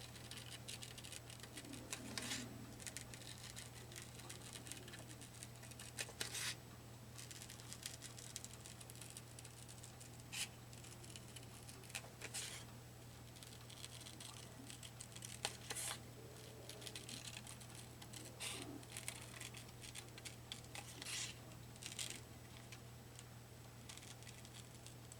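Small scissors cutting paper in short, scattered snips with pauses between them, over a faint steady low hum.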